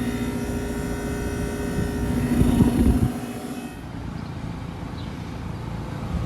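Outdoor unit of a Trane XR13 heat pump running in cooling: steady compressor hum and condenser fan, with a louder low surge near the middle. It gives way about three and a half seconds in to a quieter, even background.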